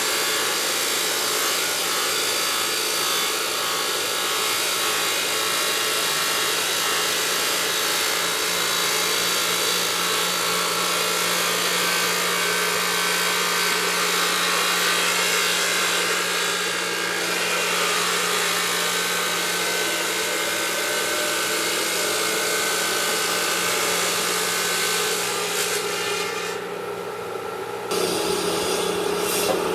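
A stone-working machine running against marble, a steady abrasive grinding hiss over a constant hum. The sound dips briefly near the end and then comes back with a changed tone.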